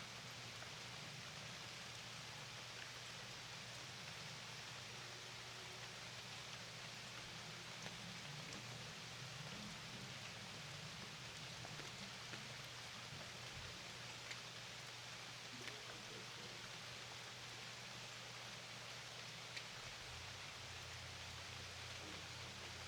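Steady rain falling, an even hiss with a few single drops ticking close by, over a faint low steady hum.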